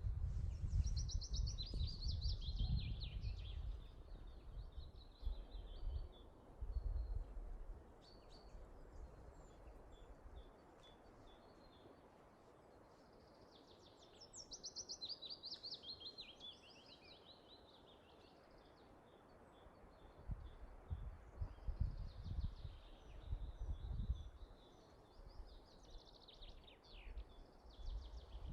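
A songbird singing two descending trilled phrases, one about a second in and one near the middle, with short high chirps repeated between them. A low rumble lies under the song at the start and again later.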